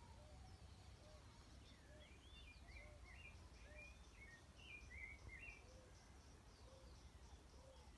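Faint outdoor birdsong: a bird twitters a quick run of chirps through the middle, over a string of short low calls repeating about once a second and a faint low rumble.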